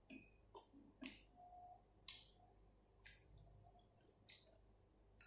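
Faint crisp crunches about once a second from chewing crispy fried tofu, over near silence.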